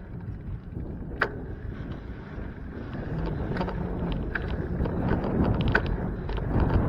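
Riding noise from a moving bicycle: wind on the microphone and a steady low road rumble, with scattered sharp clicks and rattles. One clear click comes about a second in, and the clicks grow more frequent and the rumble louder about halfway through.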